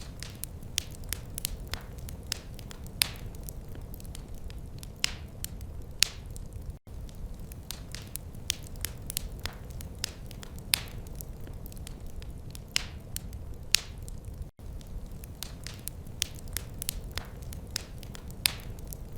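Wood fire crackling in a fireplace: irregular sharp snaps and pops, several a second, over a steady low rumble of the burning logs. The sound cuts out for an instant twice.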